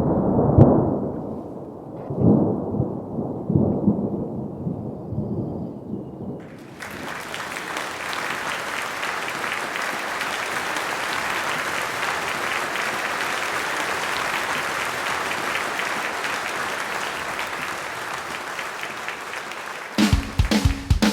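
Thunder rumbling in several low swells, then a steady hiss of heavy rain that cuts in suddenly about six seconds in. Electric-guitar music starts near the end.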